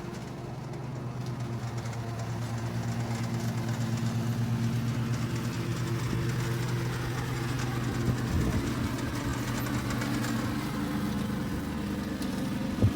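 Husqvarna R322T riding mower's engine running steadily. It grows a little louder over the first few seconds, with a brief knock about eight seconds in and a sharper one near the end.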